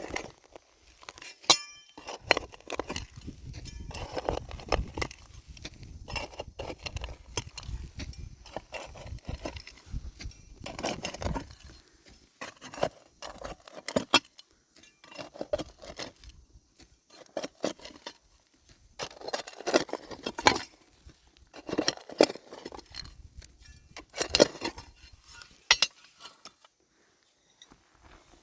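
Irregular knocks, clinks and clatter of hands-on work, coming in uneven clusters with short pauses between them.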